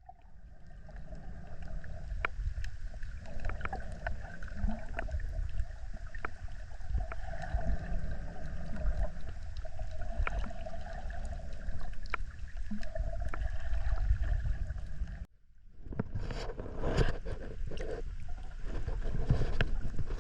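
Strong wind buffeting the microphone at the waterside, a steady low rumble with scattered small clicks. It cuts out about fifteen seconds in and then comes back rougher.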